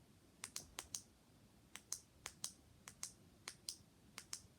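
ASMR tapping: sharp, crisp taps coming in quick pairs, about seven pairs in a row.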